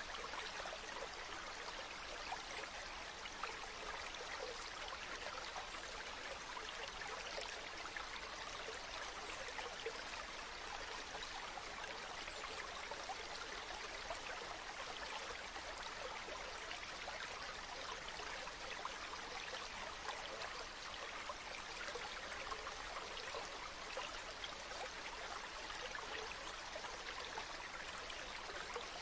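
Stream flowing steadily, a continuous even babble of running water.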